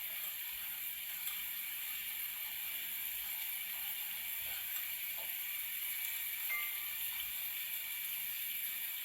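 Onions and spices sizzling steadily in the base of a tagine on the hob, a constant soft frying hiss.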